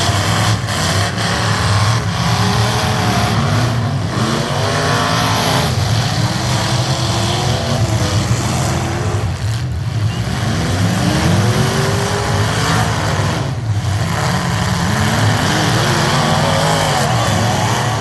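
Heavy truck engines running loud and steady, their pitch rising and falling repeatedly as they rev.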